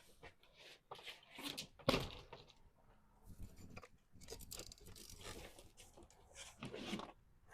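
Irregular knocks, clicks and rustling from hands-on work, with the sharpest knock about two seconds in.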